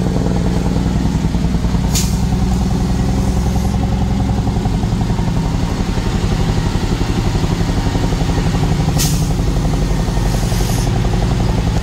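Truck engine running steadily, heard from the cab, with two short sharp hisses of air, one about two seconds in and one about nine seconds in, each trailing off into a fainter hiss.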